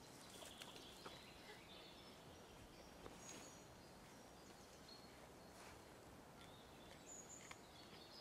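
Near silence: faint woodland ambience with a few brief, high bird chirps in the distance.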